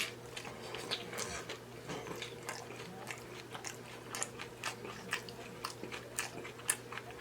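Person chewing a mouthful of taco close to the microphone, with many small, irregular crunches and mouth clicks.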